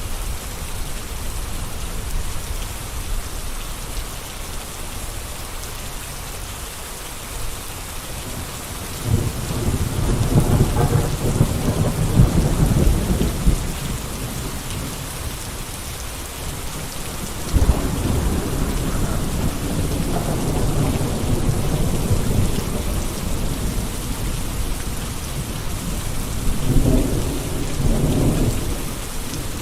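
Steady gentle rain falling, an even hiss of drops. A deep low rumble swells in three times, about nine seconds in, again past the middle and briefly near the end.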